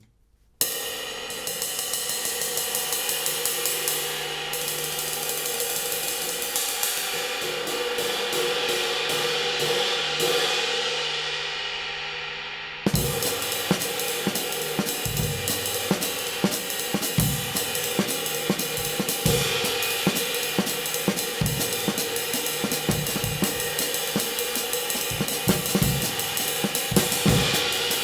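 Handmade 20-inch B20 bronze trash light crash cymbal struck with sticks in a fast, even pattern, its shimmering wash building up. From about halfway a drum kit groove with kick and snare joins in under the cymbal.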